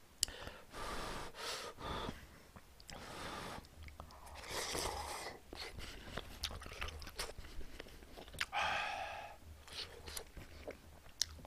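A person chewing mouthfuls of rice and stew close to the microphone, in soft irregular spells, with a few sharp clicks.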